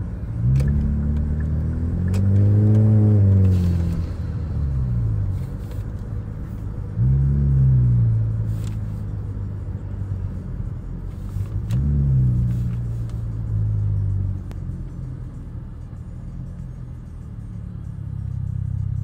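Turbocharged car engine accelerating three times, the revs climbing and then dropping away with each pull, over a steady low drone from the car.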